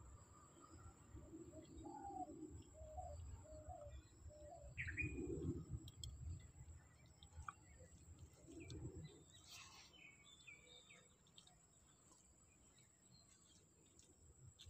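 Faint bird calls: a quick run of four or five short chirps in the first few seconds and a single falling call about five seconds in. A few soft low sounds come with them, the loudest about five seconds in, under a faint steady high tone.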